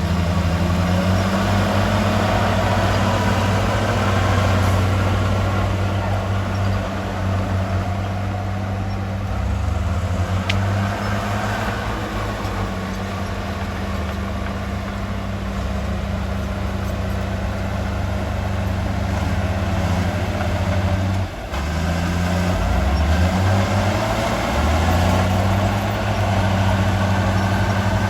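Heavy diesel engine of earthmoving machinery running, its deep drone shifting in pitch as the load changes, with a brief drop about three-quarters of the way through.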